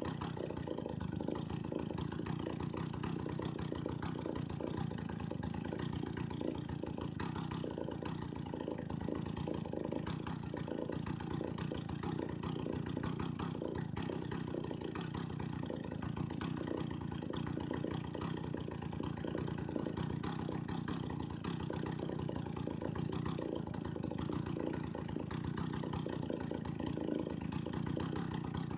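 Two-stroke chainsaw engine idling steadily, with no change in speed.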